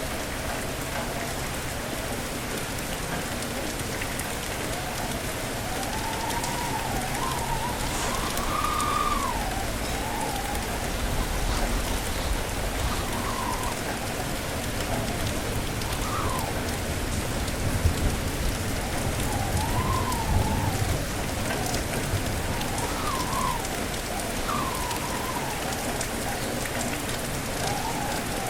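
Steady heavy rain hissing, with gusting wind that whistles in rising and falling tones on and off throughout.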